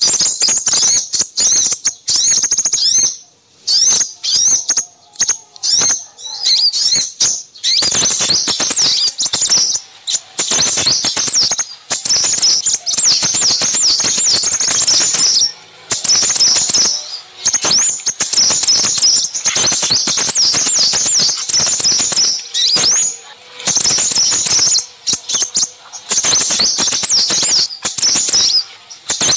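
A dense mix of small songbirds chirping and twittering fast and high, many calls overlapping, broken by a few short pauses. It is a noisy small-bird lure recording used to draw in crimson sunbirds.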